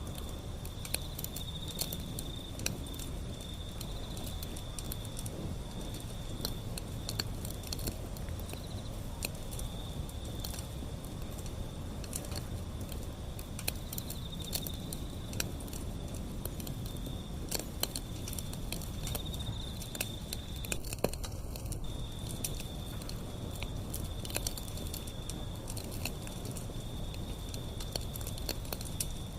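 Wood fire burning steadily, with frequent small crackles and pops over a low rumble. A steady high-pitched tone runs under it, dropping out briefly a little over two-thirds of the way in.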